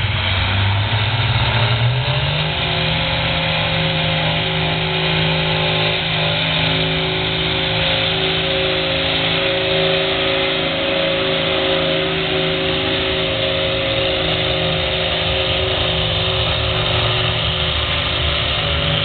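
Light Limited Superstock pulling tractor's engine at a tractor pull: it revs up over the first two seconds or so, then holds a steady high-rev, full-power run as the tractor pulls.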